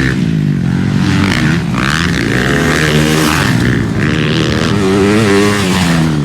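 Motocross bike engines revving hard and easing off as they ride the track, their pitch rising and falling over and over, with more than one bike heard at once.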